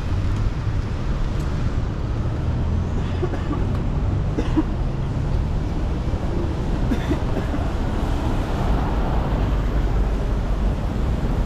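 Road traffic on a city street: a steady low rumble of passing vehicles.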